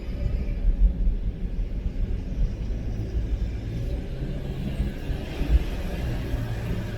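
A car driving, with a steady low rumble of road and engine noise and a light hiss that grows a little stronger after about four seconds.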